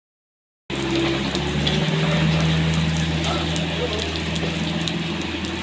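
Excavator engine running steadily under a dense steady hiss, starting about half a second in.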